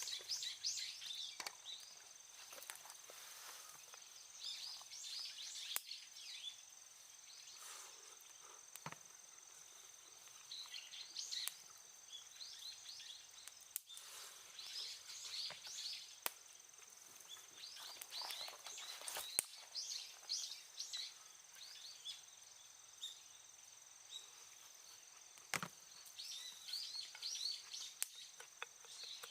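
Outdoor ambience of small birds chirping in short clustered bursts every few seconds, over a steady high insect drone, with a few isolated sharp clicks.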